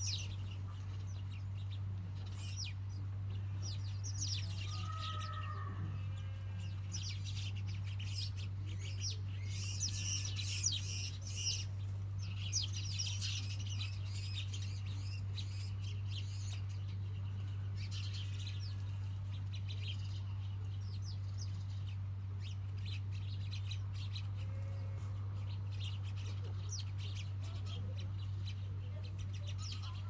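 Small birds chirping in quick bursts of high twittering, thickest around the middle, with a few lower gliding calls early on, over a steady low hum.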